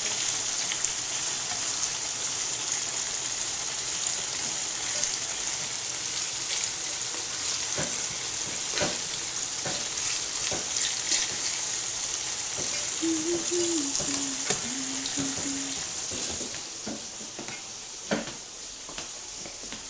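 Biryani ingredients sizzling in hot oil in a cooking pot, with a spoon clicking and knocking against the pot as it is stirred. The sizzling is steady, then dies down about three-quarters of the way through.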